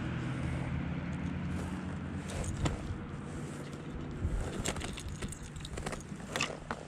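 A motorboat's engine running at a distance and slowly fading away, with several short clicks and knocks close by.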